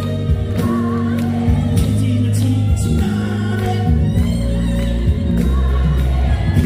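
Live fusion gugak music played loud through a PA system: a band with heavy sustained bass and singing over it.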